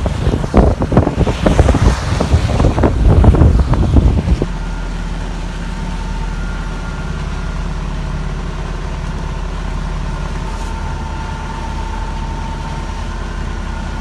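Loud, gusty wind buffeting the microphone for about four seconds, then, after an abrupt change, a steady engine drone with a faint whine.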